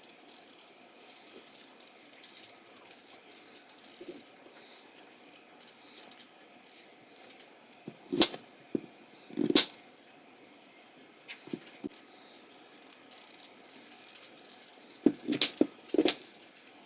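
Kitchen knife working on raw potatoes: light scraping and clicking as they are peeled with the blade, broken by sharp knocks about eight and nine and a half seconds in and again several times near the end.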